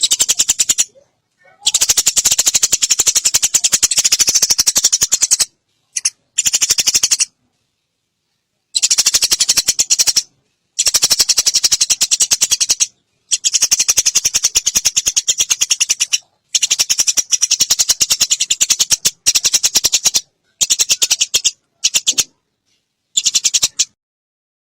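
Eurasian tree sparrows' fighting calls: very fast, harsh rattling chatter of sharp chirps in bouts of one to a few seconds, broken by short gaps of silence.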